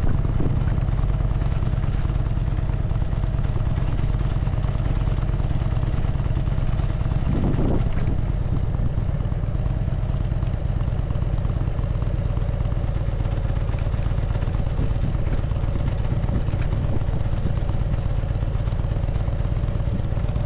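Harley-Davidson Dyna Super Glide's air-cooled V-twin engine running steadily at an even speed, with no revving.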